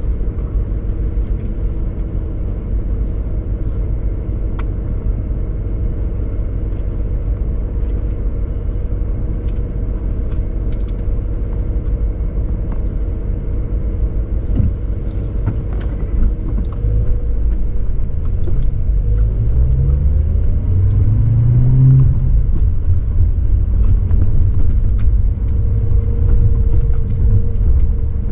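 BMW E39 540i's 4.4-litre V8 running with a low exhaust rumble. Past the middle, the engine note rises and grows louder as the car accelerates, then settles into a steady drone.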